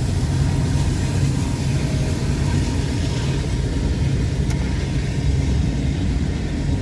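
Train passing with a steady low rumble.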